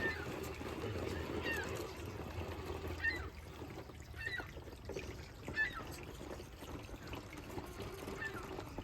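Shallow creek water trickling, with a small electric motor whine from an RC crawler that fades after about three seconds. Short bird calls chirp about six times over the top.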